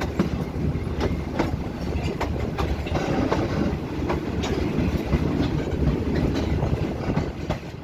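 Passenger train running along the track, heard from aboard a carriage: a steady rumble of steel wheels on the rails, broken by irregular clicks and clacks as the wheels cross rail joints.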